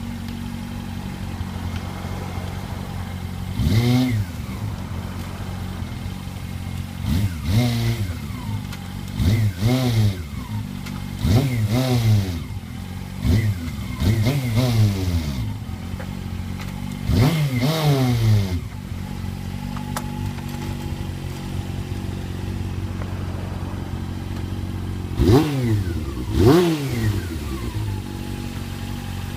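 Honda CB400 Super Four's inline-four engine idling through an aftermarket Combat muffler, blipped repeatedly with the throttle. Each rev rises sharply and falls straight back to idle, many of them in quick pairs; after a long stretch of steady idle come two more blips near the end.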